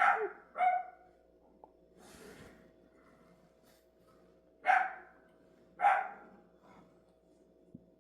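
A dog barking: two barks in quick succession, then two more about a second apart a little past the middle. A faint steady hum runs underneath.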